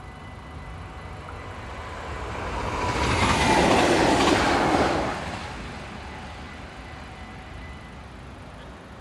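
Electric passenger train passing close by over a level crossing: its noise swells, is loudest for about two seconds near the middle, then fades away.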